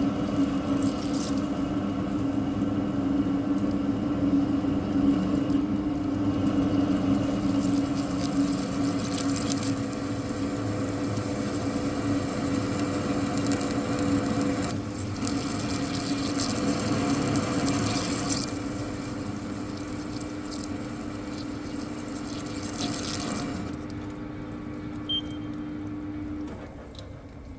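Lathe turning a spigot on a steel hydraulic cylinder rod: a steady machine hum under the hissing noise of the cut. The cutting noise stops about 23 seconds in, and the hum ends a few seconds later.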